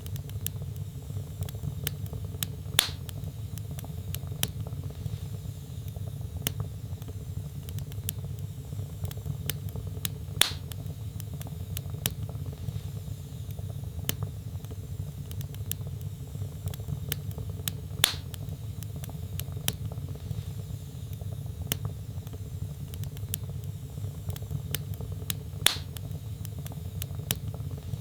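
Wood fire crackling: a steady low rumble of flames under frequent small crackles, with four louder pops at roughly even intervals.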